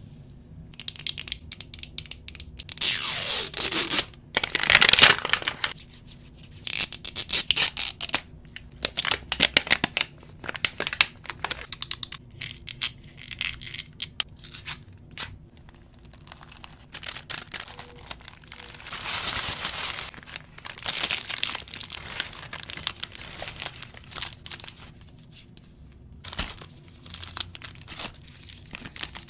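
Plastic and foil wrapping of an LOL Surprise toy being torn open and crinkled by hand: a busy run of crackles, with a few longer tearing strokes about three, five and twenty seconds in.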